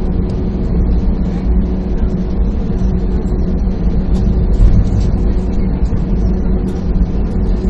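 Steady low engine rumble with a constant hum over it, heard from inside a vehicle, with no change in pitch.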